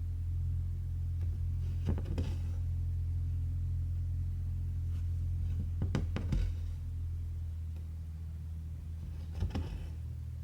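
Hand cross-stitching on cotton fabric: the needle pokes through the cloth and the thread is drawn after it, making brief scratchy clicks about every four seconds, three times, over a steady low hum.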